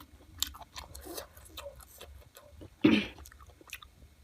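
Close-miked chewing of chicken, heard as scattered wet clicks and smacks of the mouth. There is one louder, brief mouth sound about three seconds in.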